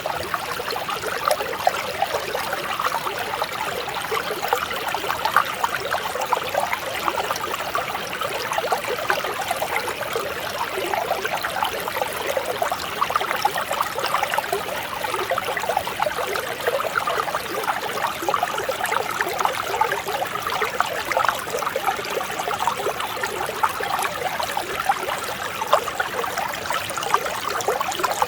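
Mountain stream flowing steadily, a continuous babbling and trickling of water.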